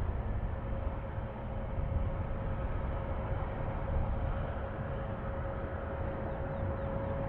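Distant jet airliner engines: a steady low rumble with a thin whine that holds and rises slightly toward the end.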